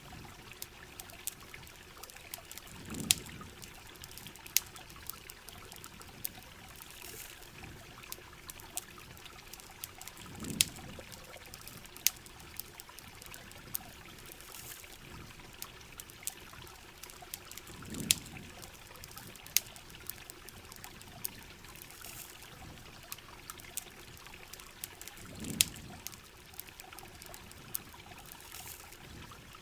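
Steady heavy rain and running river water with the sharp pops and crackles of a campfire scattered throughout. A soft low swell comes through four times, about every seven and a half seconds.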